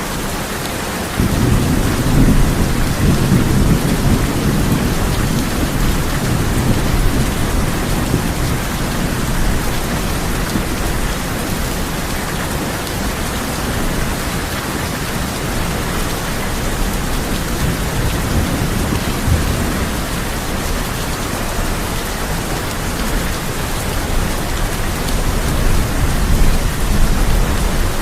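Steady heavy rain drumming on a tin roof, with rolls of thunder: one long low rumble starting about a second in and fading over several seconds, and another building near the end.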